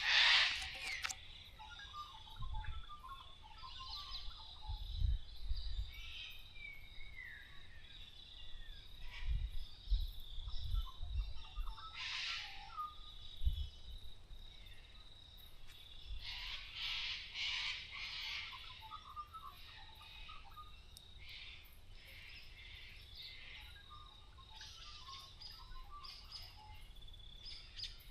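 Small birds chirping and calling in short scattered bursts, over a faint steady high tone.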